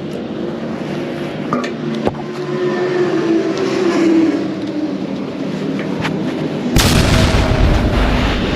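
Superbike engine idling and revving, with one rise and fall in pitch a few seconds in. Near the end comes a sudden, much louder blast from the exhaust that holds for about two seconds.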